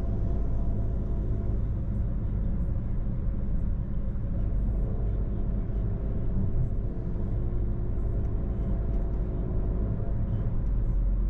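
Steady rumble of a car driving, heard from inside the cabin: road and tyre noise with a low, even engine hum.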